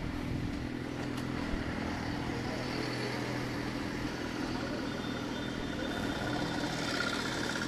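Motorcycle engine running at a steady, even speed amid street traffic noise, with a faint high tone joining near the end.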